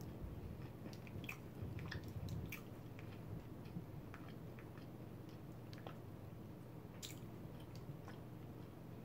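Close-miked chewing of a mouthful of Spam sandwich on soft bread with cream sauce: small wet clicks and smacks scattered throughout, over a faint steady hum.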